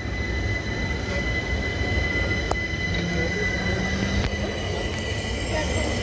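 Electric passenger train in the station, a low rumble with a steady high-pitched whine held throughout. A run of faint high pips comes near the end.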